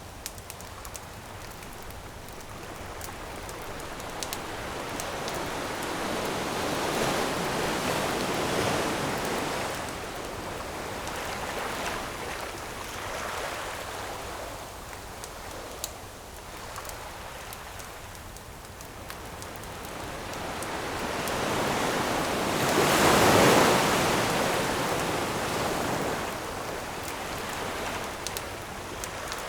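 Ocean waves breaking and washing ashore in slow swells, the biggest surge about two-thirds of the way through, with a campfire's burning wood crackling and popping now and then.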